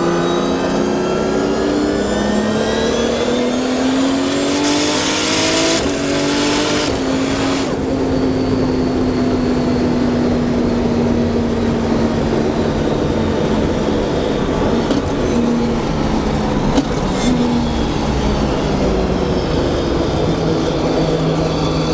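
Nissan Skyline R32 GT-R engine heard from inside the cabin under hard acceleration, its pitch climbing steeply with a loud rushing hiss. The pitch then falls slowly as it eases off, with a couple of brief knocks about three-quarters of the way through.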